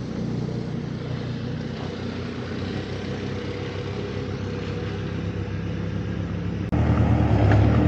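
A vehicle engine running steadily at an even idle-like pace. About seven seconds in, the sound jumps suddenly louder and deeper.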